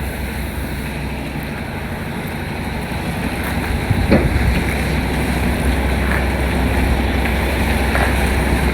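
Semi truck's diesel engine running steadily as the tractor-trailer moves across the lot, growing gradually louder, with a short knock about four seconds in.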